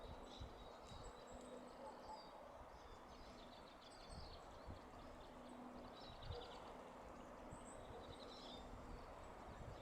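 Faint chirps and short trills of small songbirds, coming several times, over a low rumble.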